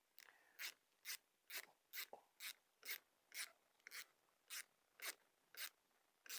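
Ratchet wrench clicking in short, even strokes, about two a second, running down the clamp bolts of a brake master cylinder.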